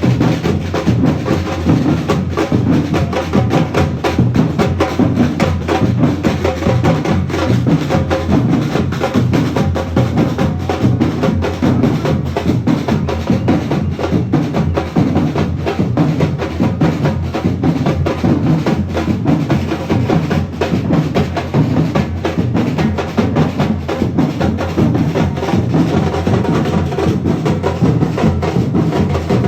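A group of drummers playing a fast, dense rhythm together, with deep bass drum beats under the strokes and no let-up.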